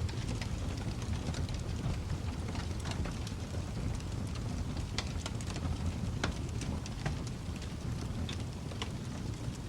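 Wood fire crackling: a steady low rumble of the flames with irregular sharp pops and snaps, several a second, a few of them louder around the middle.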